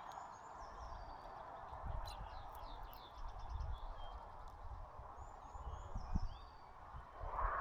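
Small birds chirping at a feeder: short, high chirps scattered through, over a steady background hiss. A few dull low thuds come and go, the loudest about six seconds in.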